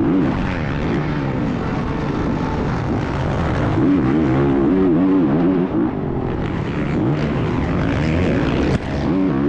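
Dirt bike engine heard from an onboard action camera, the revs repeatedly rising and falling as the rider opens and closes the throttle, with high revs about four seconds in and again near the end.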